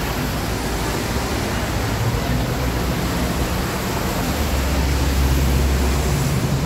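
Steady, loud rushing noise with a low rumble that swells a little past the middle.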